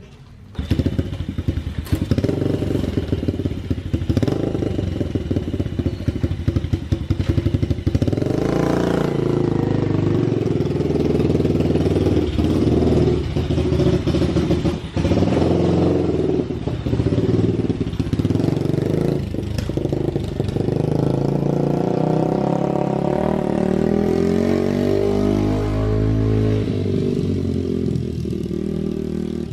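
Cold Yamaha TTR-90 pit bike's small four-stroke single-cylinder engine starting about half a second in, then running with the revs rising and falling as it is ridden.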